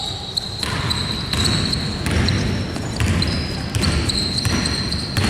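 A basketball being dribbled on a hardwood court: about seven steady bounces, a little over one a second.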